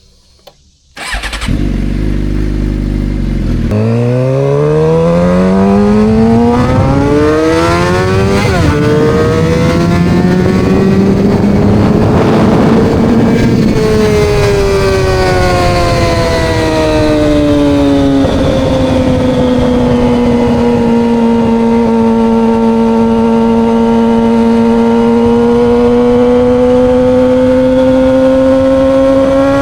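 Suzuki GSX-R750's inline-four through Coffman slip-on exhausts, coming in suddenly about a second in, then pulling hard with the pitch rising. It shifts up about eight seconds in, climbs again, drops back around the middle and then holds a steady cruise.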